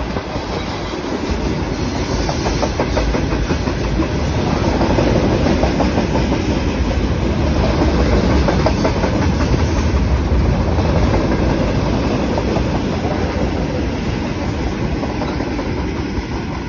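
A freight train of coal-filled open wagons and covered boxcars rolling past at speed, its wheels clattering over the rail joints in a steady clickety-clack.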